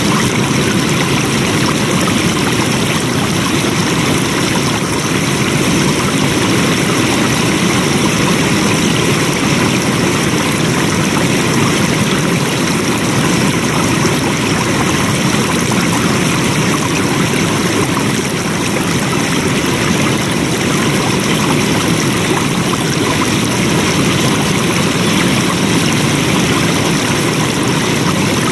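Flowing water, a steady, continuous rush of a stream.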